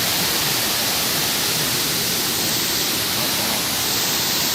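Waterfall's water rushing steadily, an even, unbroken noise.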